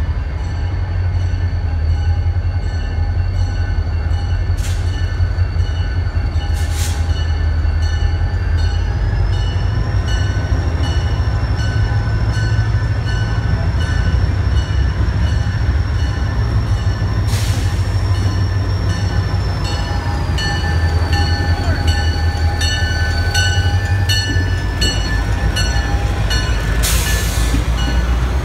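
CN diesel freight locomotives coming out of a tunnel: a loud, steady low engine rumble, with thin high tones that slowly bend in pitch. Four short hisses sound at intervals, the last near the end as the lead locomotive passes close by.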